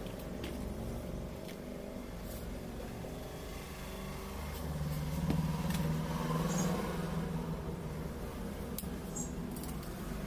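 A motor or engine running steadily with a low hum, growing louder for a few seconds midway, with a few light clicks.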